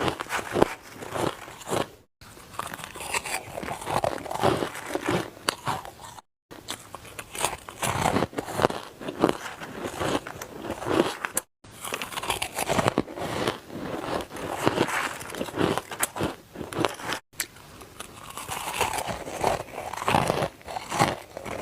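Ice being bitten and chewed close to the microphone: repeated crisp crunches and crackling as the ice breaks between the teeth. The crunching stops dead for a moment four times, where short clips are spliced together.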